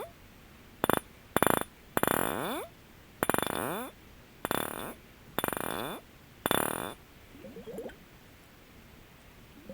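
Fingernails tapping very rapidly on glass objects, in about seven short bursts of quick ticking, each under a second long. A softer, duller rattle follows about three-quarters of the way in.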